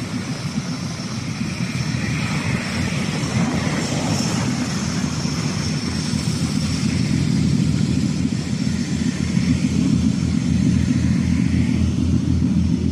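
Diesel engine of a large push tug driving four loaded barges, a steady low throb with an even pulse that grows slightly louder in the second half.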